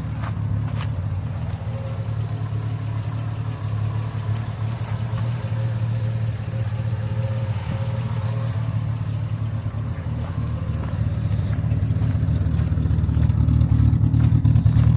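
Triumph TR6's straight-six engine idling steadily through its existing stainless exhaust and oversized tailpipes, before a new back box is fitted. The low exhaust note grows louder over the last few seconds.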